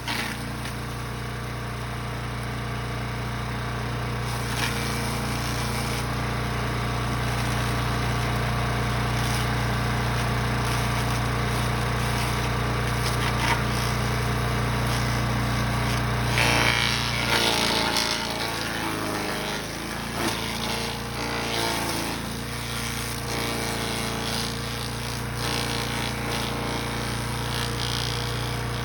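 Brush Master 3-in-1 chipper/shredder running steadily under engine power. About 17 seconds in, its steady note dips and a rougher, noisier sound comes in for a couple of seconds, then the steady running returns.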